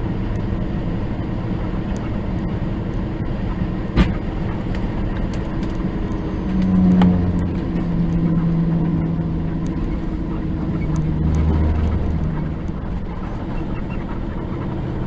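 Steady engine and road noise from a semi truck driving on the highway. There is a sharp click about four seconds in, and a deeper engine hum that swells from about six and a half to twelve seconds.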